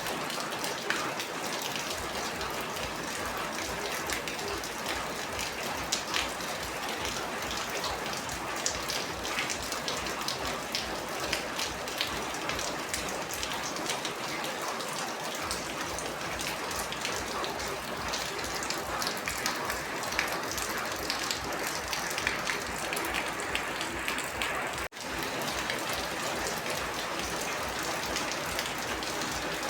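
Steady heavy rain falling: a continuous hiss dense with individual drop impacts. There is a split-second dropout about 25 seconds in.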